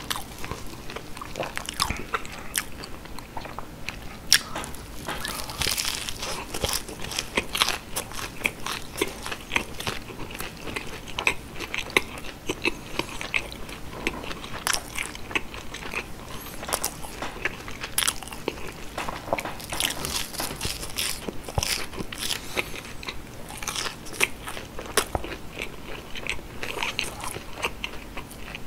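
Close-miked biting and chewing of breaded, deep-fried cheese sticks: the crumb coating crunches and crackles in rapid clicks, with softer chewing between bites.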